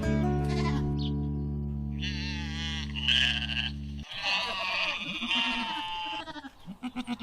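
Sheep bleating, two long wavering bleats and a few shorter ones, over sustained background music that stops about four seconds in.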